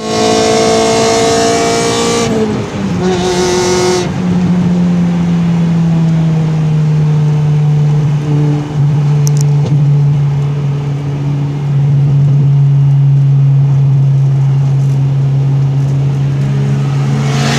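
Car engine held at steady high revs, a loud continuous drone that drops slightly in pitch about two seconds in and then holds.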